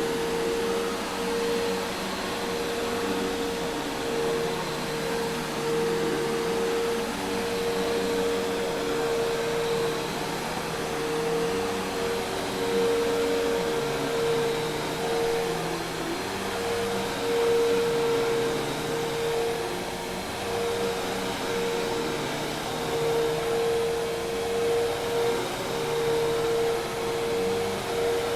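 Hoover Task Vac commercial vacuum cleaner running steadily: a rush of air with a steady mid-pitched motor whine held over it.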